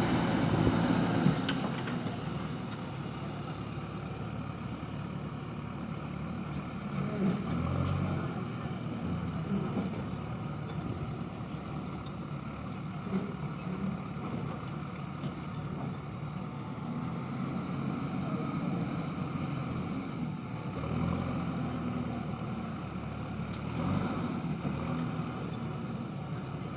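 JCB backhoe loader's diesel engine running under working load, its note swelling several times as the hydraulics work the bucket.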